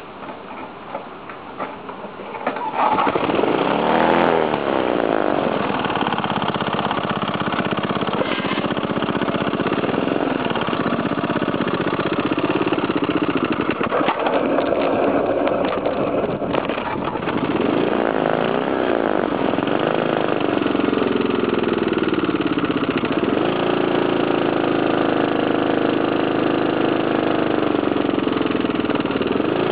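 Briggs & Stratton 5 hp single-cylinder four-stroke engine on a homemade motorized BMX bike. It is quieter at first, then revs up about three seconds in and runs under load, its pitch rising and falling as the bike speeds up and slows.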